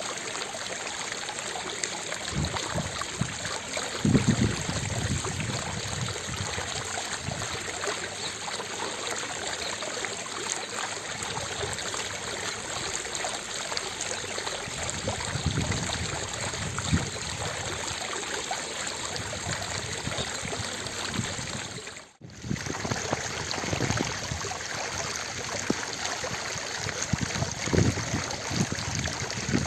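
Fountain water splashing and falling into its basin, a steady rush with occasional low swells. There is a brief dropout about three-quarters of the way through.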